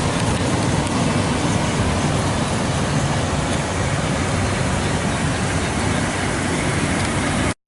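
Steady rumbling noise that cuts off suddenly near the end.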